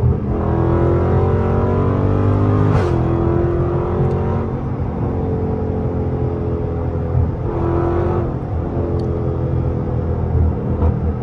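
A 392 HEMI V8 pulling hard under acceleration, its pitch rising through the gears. There is an upshift about three seconds in, then it climbs again, with a further pull a few seconds later.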